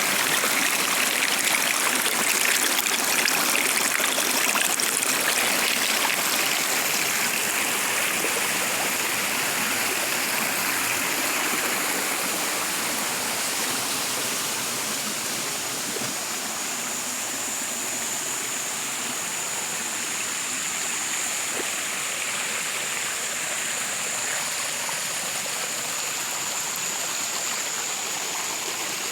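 Stream water running steadily, a little louder in the first half. A faint, steady high tone joins about halfway through.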